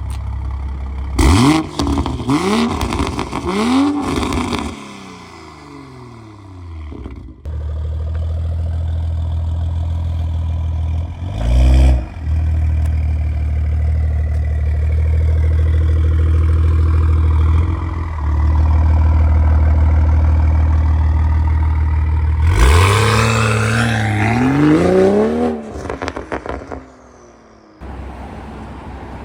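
BMW M340i's turbocharged 3.0-litre B58 inline-six being revved through a valved catback exhaust and catless downpipe with the valves open. There are three quick rev blips, then another short blip, then the revs are held steady for several seconds, then two more climbing revs before it settles back.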